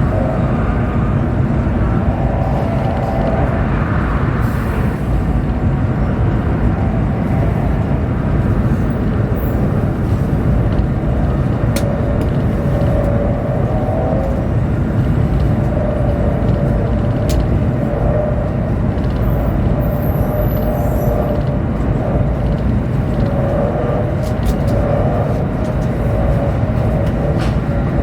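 Chinese high-speed train running at speed, heard inside the passenger car: a steady low rumble and rush, with a faint wavering hum in the middle range and a few light clicks.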